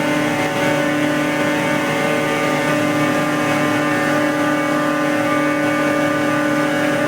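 Hydraulic pump test bench running a Danfoss 90R250 variable-displacement axial piston pump, stroked up toward high flow in its second direction: a steady, even mechanical whine pitched around 300 Hz with a rich stack of overtones over the drive's hum.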